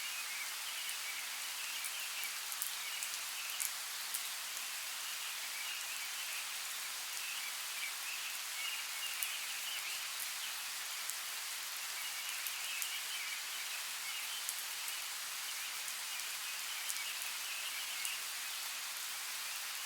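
Steady rush of creek water, with scattered sharp drip-like ticks. A high chirring chorus swells and fades in bouts every few seconds.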